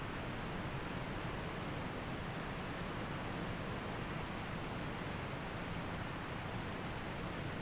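Waterfall and rushing creek water making a steady, even roar of falling and flowing water.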